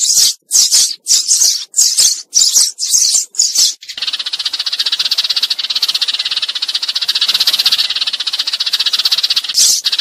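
Sparrows calling, a decoy recording of a flock call: first a run of loud separate high chirps, about two a second, then from about four seconds in a fast continuous chatter that lasts about six seconds, with single chirps returning near the end.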